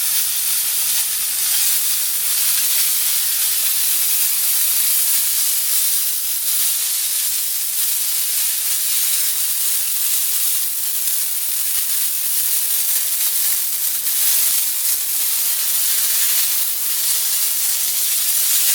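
Water spraying from a burst water pipe under pressure, a steady hiss.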